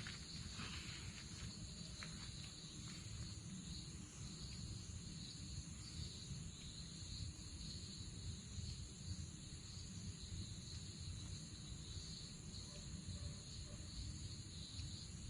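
Insect chorus, crickets chirring steadily at several high pitches, over a faint low rumble. A few light clicks come in the first seconds.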